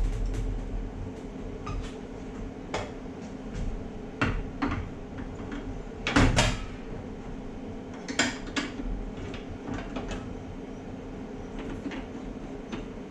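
Parts of a Globe commercial meat slicer knocking and clicking as they are handled and fitted back on, the loudest a double knock about six seconds in.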